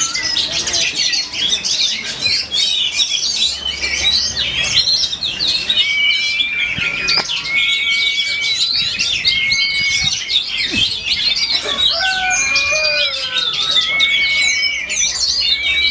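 A dense chorus of caged songbirds singing at once, with an oriental magpie-robin among them: overlapping rapid chirps and trills, with repeated long, flat whistled notes from about six seconds in.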